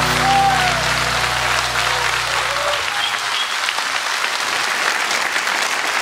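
Concert audience applauding at the end of a song. The band's last sustained chord rings under the clapping and dies away about three seconds in.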